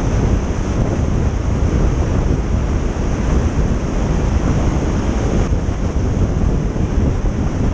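Steady rumble of wind and road noise from a lorry driving at speed, with wind buffeting the microphone.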